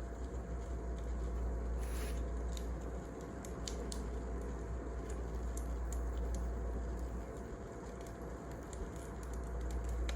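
Wood fire crackling, with many scattered sharp pops and snaps over a steady low rumble.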